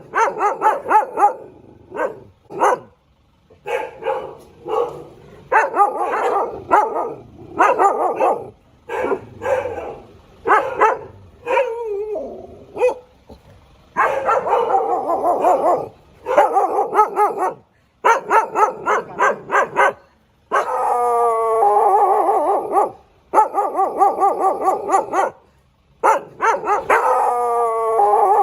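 A dog barking in quick runs of barks with short pauses between them, broken by a few longer howling calls that slide in pitch.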